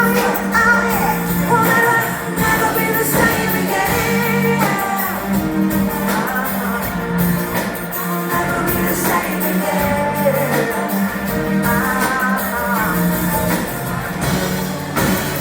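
Live pop band performance with a woman singing the lead melody over a steady bass and backing.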